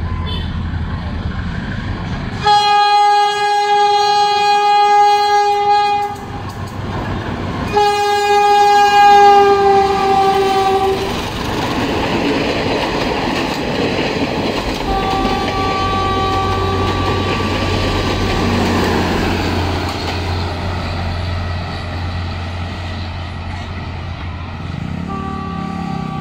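Philippine National Railways train sounding two long horn blasts, the second dipping slightly in pitch at its end, then passing with a steady rumble and clickety-clack of wheels on rail. Fainter horn notes sound again later.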